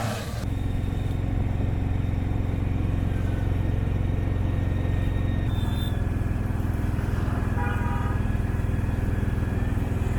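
Steady low engine drone of a moving road vehicle, with a faint, brief pitched sound about eight seconds in.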